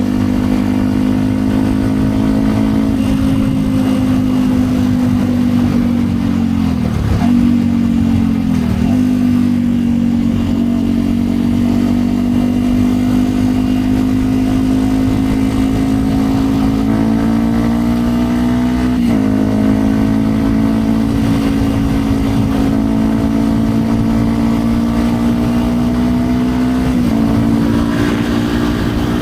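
2010 Yamaha WR 125 X's single-cylinder four-stroke engine through a Yoshimura aftermarket exhaust, running under way at fairly steady revs. Two brief dips in revs come about seven and nine seconds in, and small shifts in pitch come a few more times.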